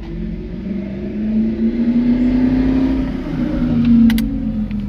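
Honda D16 four-cylinder engine in a 1991 Civic hatchback, pulling under acceleration. Its note climbs, eases off, then swells again, loudest about four seconds in, with a few sharp clicks near the end.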